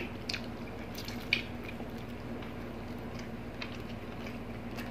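Close-miked eating sounds of people chewing food eaten by hand: soft, wet, squishy mouth clicks and smacks scattered irregularly, a couple of them louder, over a faint steady hum.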